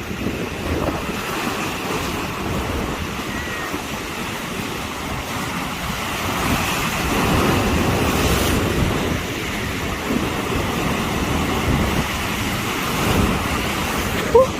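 Sea waves surging and breaking, with wind buffeting the microphone; the wash swells about halfway through. A brief high squeak cuts in just before the end.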